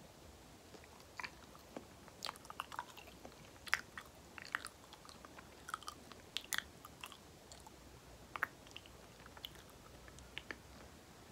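Banana being chewed, with soft, sticky, wet mouth clicks and smacks coming at irregular intervals. They start about a second in and thin out near the end.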